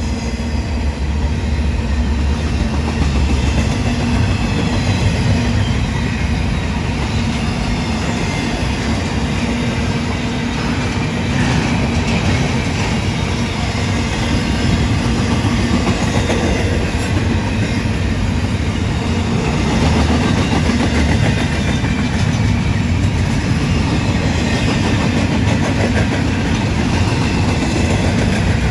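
Freight train rolling by, a loud, steady noise of wheels on the rails that keeps up without a break.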